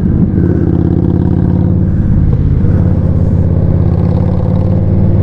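2020 Indian Scout Bobber Twenty's liquid-cooled V-twin engine running steadily while the motorcycle is ridden at an even speed.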